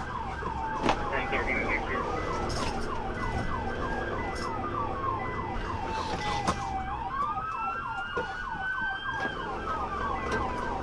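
Police car sirens sounding during a pursuit: a slow wail rising and falling over several seconds, overlaid by a faster siren pattern of rapid repeated sweeps. A low vehicle rumble runs underneath.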